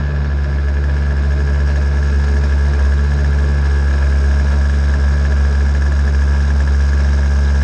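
50cc Venom racing engine idling steadily at an even pitch.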